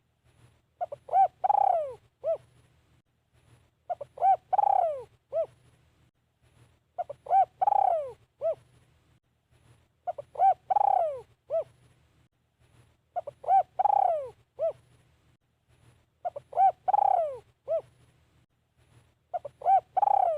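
Spotted dove cooing its phrase over and over, about once every three seconds. Each phrase is a couple of short coos, a longer coo falling in pitch, then a short final coo: the call used as a decoy to lure wild doves.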